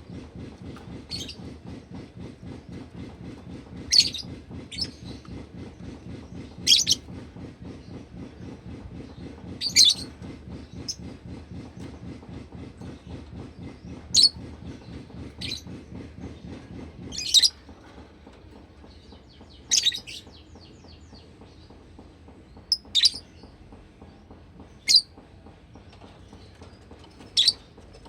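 Lovebird giving short, sharp high chirps, one every two to three seconds, over a low steady rumble that stops about two-thirds of the way through.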